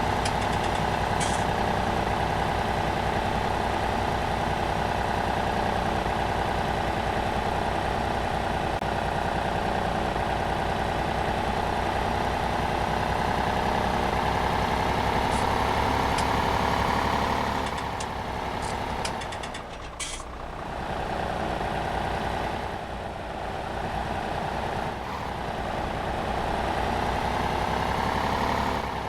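Old tractor engine, brought back to life after standing unused for 28 years, running steadily. About two-thirds of the way through the sound drops and wavers up and down a few times.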